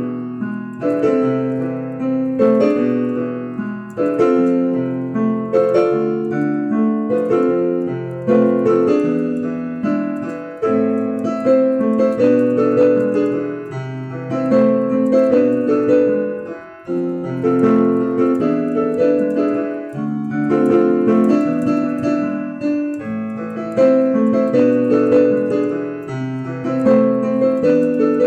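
Solo piano music: a flowing passage of repeated broken chords over low bass notes, without voice.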